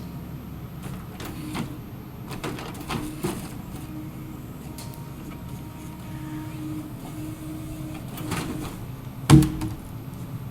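Harvester head on a small excavator at work: a steady engine drone, short on-and-off hydraulic whines, scattered knocks, and one loud thump about nine seconds in.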